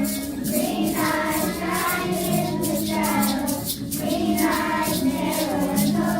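A class of young children singing a song together in unison, over accompaniment with a steady beat.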